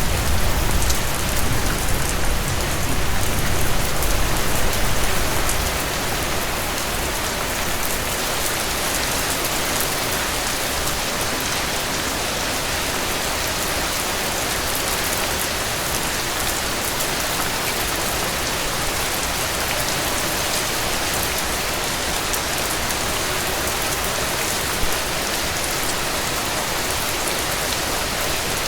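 Heavy rain falling in a steady, dense hiss. A low rumble under it fades out about five seconds in. One sharp pop comes near the end.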